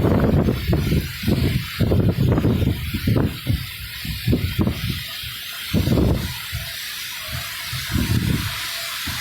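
Wind gusts buffeting the microphone in irregular low rumbles, dense at first and then more spaced out, over the steady hiss of falling rain.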